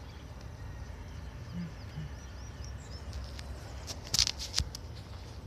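Faint bird chirps over a low, steady wind rumble. About four seconds in comes a quick cluster of sharp crackling clicks, the loudest sound here.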